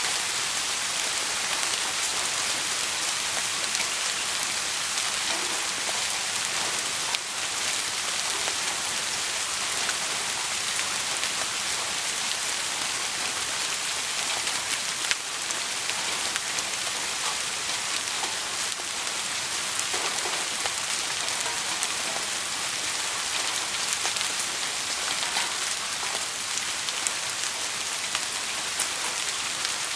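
Steady rain falling on a surface: a dense, even hiss with scattered light ticks of drops.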